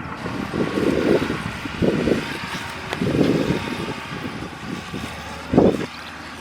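Bulldozer's diesel engine running while working soil, with uneven louder surges every second or two and a sharp short one near the end.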